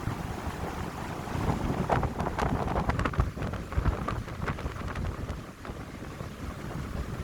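Wind gusting through pine trees, with low rumbling buffets of wind on the microphone and a few brief crackles of rustling around the middle.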